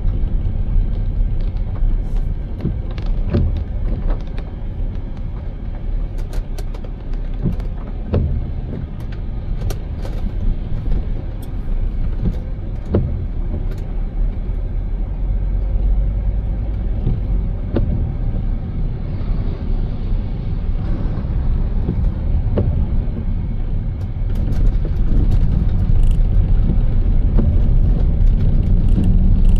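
Car driving on a wet road: steady engine and tyre rumble with road hiss and scattered sharp ticks. It gets louder about 25 seconds in.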